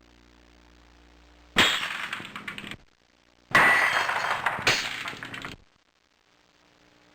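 Three separate crash sound effects of something breaking. Each starts suddenly and trails off in crackling over about a second: the first comes about a second and a half in, and the other two come back to back in the middle.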